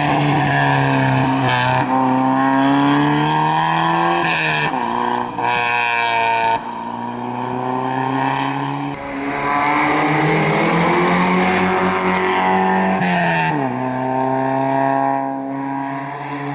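Rally car engine at full throttle, revving up and dropping in pitch at each gear change, three times, as the car passes; the sound fades near the end.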